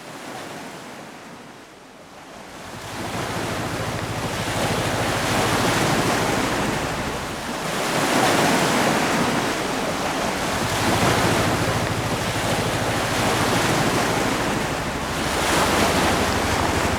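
Sea waves washing in, swelling and easing every few seconds, with a low steady hum underneath.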